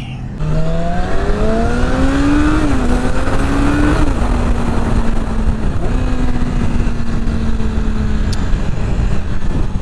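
Yamaha R6 sportbike's inline-four engine pulling away: its pitch rises, drops back twice at gear changes, then holds steady at cruising speed, with wind rumble on the microphone.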